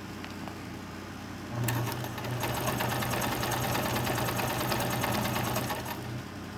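Viking electric sewing machine stitching at speed for about four seconds, a rapid even clatter of needle strokes over the motor's hum. It starts about one and a half seconds in and stops near the end.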